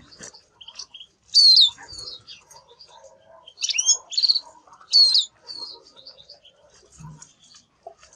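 Domestic canary singing: loud sweeping whistled phrases about a second and a half in and again around four and five seconds, with softer chirps between them.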